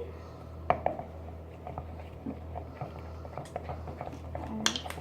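Scattered light taps and clicks of small objects being handled on a table, over a steady low hum.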